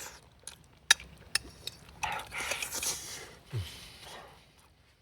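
Chopsticks or utensils clicking sharply against a bowl a few times while eating, followed by a second of breathy noise and a short low grunt.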